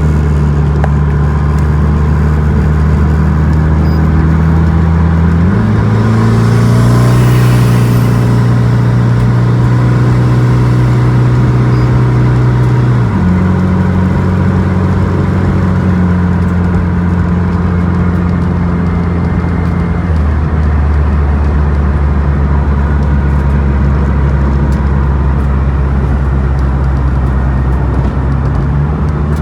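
Mitsubishi 3000GT VR4's swapped 4G63 inline-four engine running steadily while the car is driven. Its drone jumps up in pitch about five seconds in, then drops back in two steps, about thirteen and about twenty seconds in.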